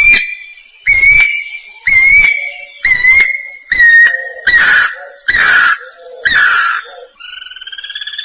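Guira cuckoo singing: a series of loud whistled notes about once a second, the later ones lower and harsher, breaking into a rising, rattling trill near the end.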